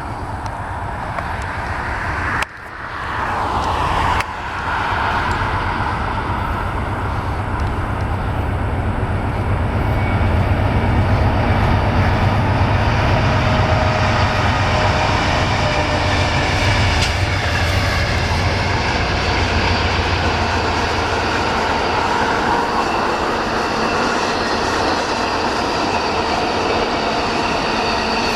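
Train running past on the rails, a steady loud rumble that swells to its loudest in the middle, with two abrupt breaks about two and four seconds in.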